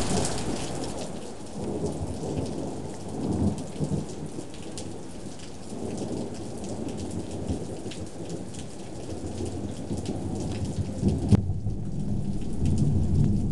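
Thunder rumbling through a steady downpour of rain, with raindrops pattering and dripping close by; the thunder is loudest near the end.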